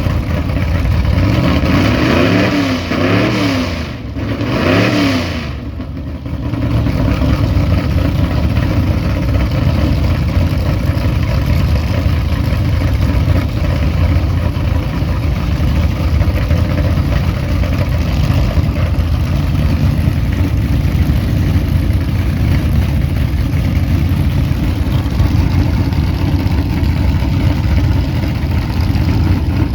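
Tri-Five Chevy's engine revved in several quick up-and-down blips, then held running steadily and loud with no change in pitch.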